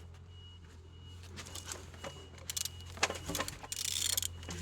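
A used car engine being turned over by hand: scattered metallic clicks and rattling that grow louder in the second half, over a steady low hum, with a faint high beep repeating in the background.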